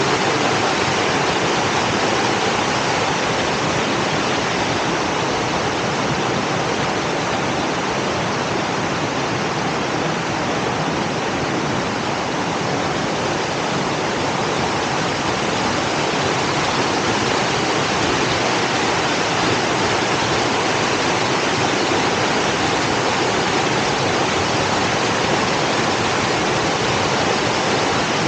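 Waterfall water rushing and splashing, a steady, unbroken wash of noise.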